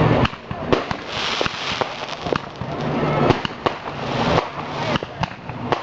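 Fireworks going off: a scattered series of about a dozen sharp bangs, with bursts of crackling hiss between them.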